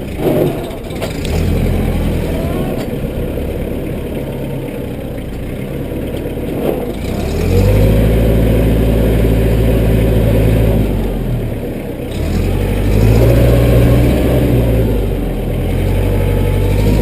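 Massey Ferguson compact tractor's diesel engine running, dipping and then rising in speed and loudness about seven seconds in and again about twelve seconds in, with a few short knocks near the start.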